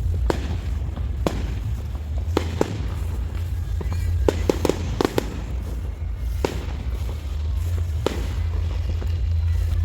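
Fireworks going off: a series of sharp bangs and cracks at irregular intervals, with a quick cluster of several about halfway through, over a steady low rumble.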